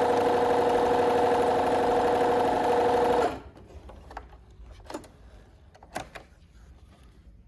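Bernina B325 sewing machine stitching at high speed, running off eight layers of thick denim onto a single layer of organza, then stopping abruptly about three seconds in. A few faint clicks follow.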